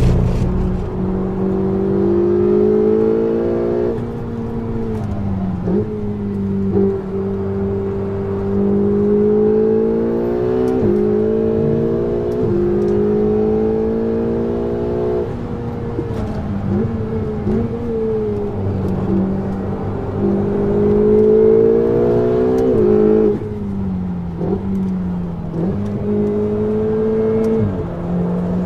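Ferrari 488 GTB's twin-turbo V8 through a Capristo exhaust, accelerating in several pulls: the engine note climbs and then drops sharply at each upshift, with steadier cruising stretches between. The longest pull is near the end.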